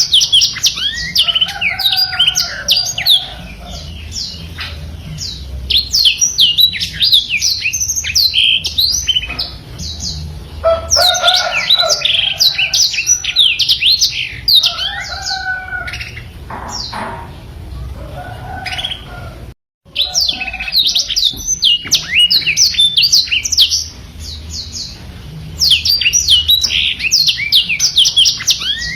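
Black-throated canary (blackthroat) singing a long, fast twittering song of rapid sweeping notes, in loud runs with softer passages between. The sound drops out for a split second a little before the middle.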